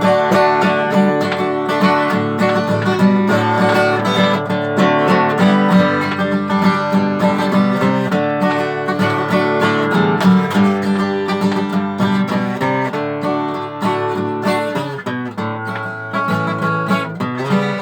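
Acoustic guitar playing an instrumental break in a country song, notes picked and strummed at a steady tempo with no singing.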